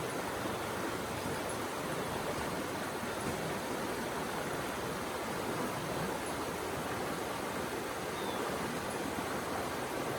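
Steady, unbroken rush of flowing water, like a forest stream, in a nature ambience recording.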